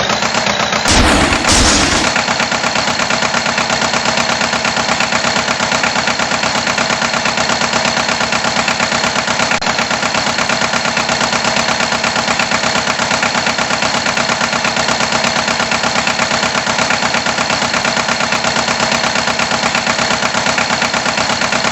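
Tractor engine running with a fast, even chugging pulse, with a louder burst about a second in.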